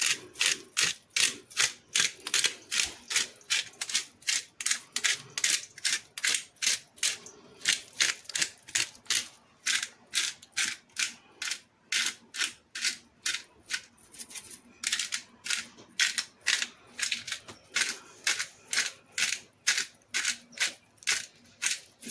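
A rapid, even series of sharp clicks, about three to four a second, with nothing else standing out.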